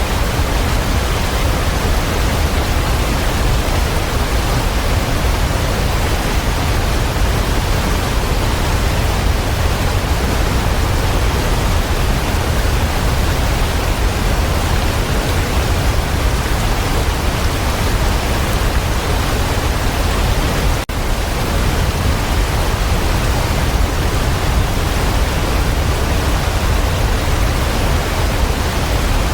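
Waterfall: a steady, even rush of falling water, with one momentary dip in level about two-thirds of the way in.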